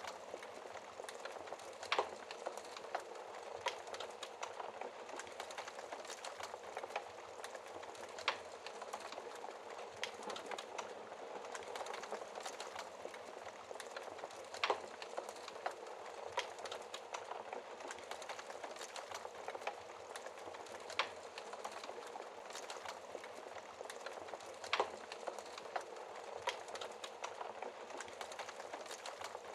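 Wood fire in a fireplace crackling: a steady hiss of burning with constant small pops and a sharper loud crack every few seconds.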